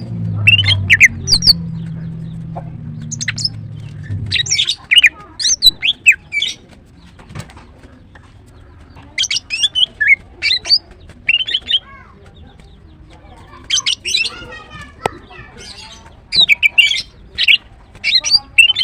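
Female greater green leafbird calling in runs of short, quick chirping notes with pauses between the runs. A low hum lies under the first four seconds or so.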